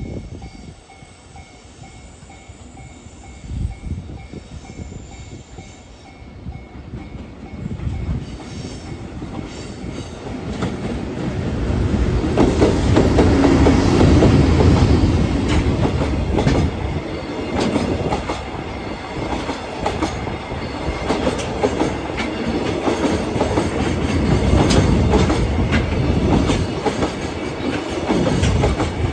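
Freight container train rolling past, its wheels clacking over rail joints. It builds from faint to loud over the first dozen seconds, is loudest about twelve to sixteen seconds in, and stays loud as the wagons go by.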